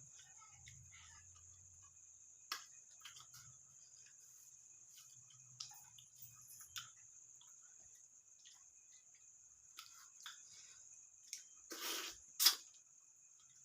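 Eating sounds: scattered soft mouth smacks and chewing clicks from a person eating rice and fish curry, louder for a moment about twelve seconds in, over a steady faint high hiss.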